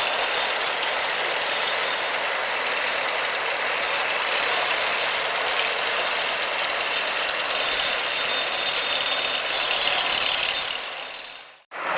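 Tractor engine running steadily, mostly a noisy mechanical clatter; it fades out and cuts off suddenly near the end.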